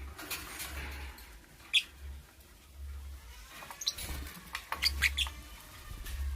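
Lovebird giving short, sharp chirps: one about two seconds in, another near four seconds, then a quick cluster of three or four around five seconds.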